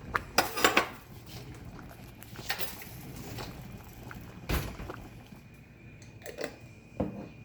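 Kitchen utensils and dishes clinking and knocking in a few separate clatters while a lasagna is being layered, with the strongest knock a little past the middle.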